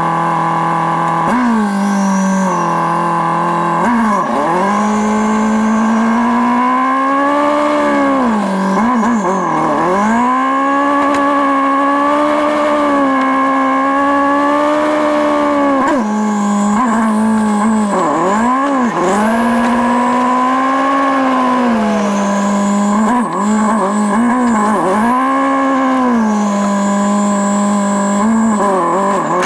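Turbocharged Nissan KA24DET 2.4-litre four-cylinder heard from inside a 240SX's cabin while driving. It runs steady for about a second, then revs climb and drop sharply with each gear change many times over, with a high turbo whistle rising along with the revs at times.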